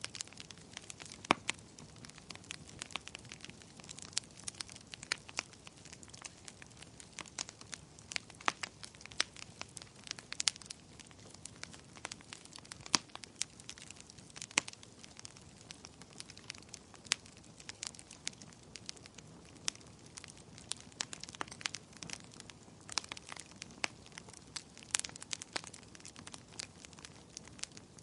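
Wood campfire crackling: irregular sharp pops and snaps over a low steady hiss of burning wood.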